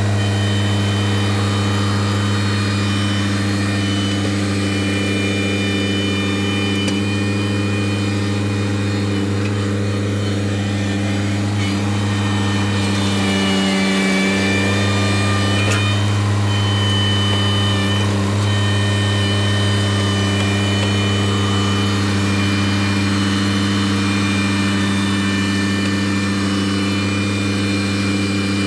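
Engine of the machine spreading gravel, running steadily at working speed with a steady high whine above it. About fourteen seconds in, the pitch sags briefly as if under load, then recovers.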